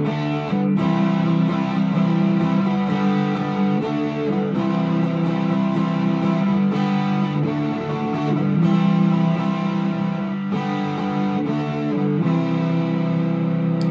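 PRS SE McCarty 594 electric guitar played through a Vox AC10 amp, with the selector in the middle position and both humbuckers coil-split. It is a continuous passage of picked and strummed chords that ring on between the pick attacks.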